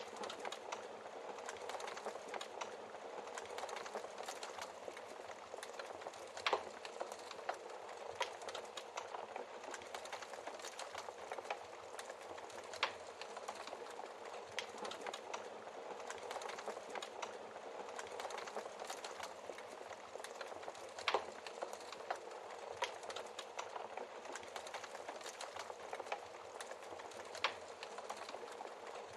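Wood fire crackling steadily in a fireplace, with fine constant crackle and a few sharper pops from the burning logs scattered through it.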